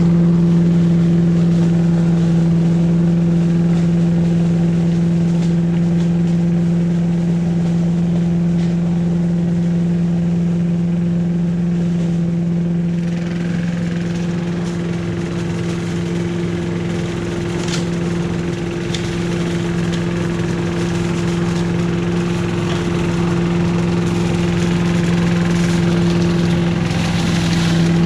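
Billy Goat Estate leaf vacuum's 5.5 hp Briggs & Stratton engine running at a steady speed while the vacuum picks up leaves, with one sharp click about two-thirds of the way through.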